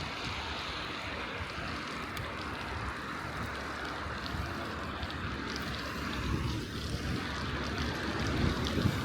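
Wind buffeting the microphone of a moving bicycle, over a steady hiss of tyres rolling on a snowy street. The low buffeting grows stronger in the last few seconds.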